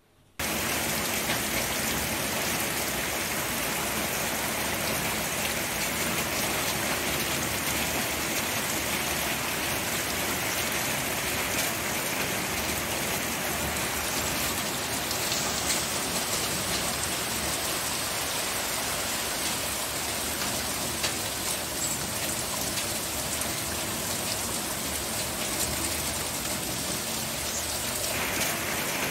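Rain falling steadily, a dense even hiss of drops that starts suddenly about half a second in.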